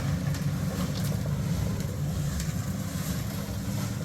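A heavy engine running steadily with a low, even drone, with a few faint clicks over it.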